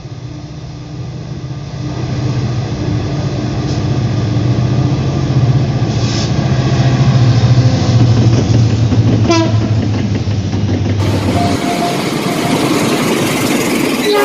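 Diesel locomotives hauling a loaded coal freight train, their engines making a steady low drone that grows louder as the train comes past, with a short horn blast about nine seconds in. Near the end a passenger train rushes past with a loud, broad rushing noise.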